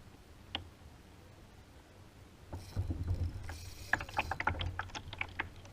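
Water splashing and dripping around a kayak: a single tick, then a low rumble and a quick run of small, sharp splashes in the second half.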